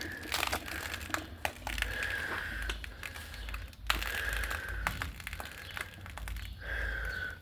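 PowerSmart 170cc mower engine, partly seized after sitting in flood water, being pulled over with the recoil starter again and again; each pull brings a high squeak and a low thud, with scattered clicks in between. The squeak comes from a crankshaft that is still stiff, just starting to free up after lubricant.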